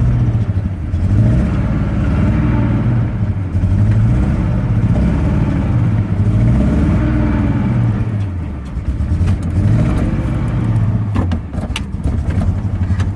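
Chevy truck engine running through a freshly fitted exhaust, revved up and let back down every two to three seconds. The carburetor isn't running right, and the owner suspects a vacuum leak.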